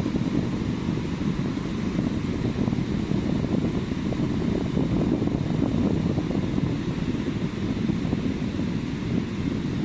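Steady low rush of sea surf on a beach, mixed with wind buffeting the microphone, with no single wave crash standing out.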